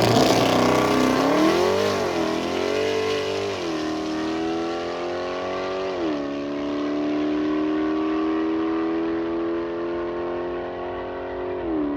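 Car engine accelerating hard and upshifting through the gears: its pitch climbs, drops at each shift, and climbs again. The sound grows duller as it pulls away.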